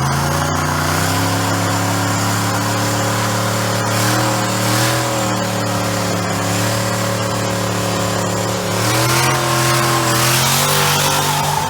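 Car engine held at high revs during a burnout, wheels spinning to make smoke; the engine note stays steady, then shifts about nine seconds in.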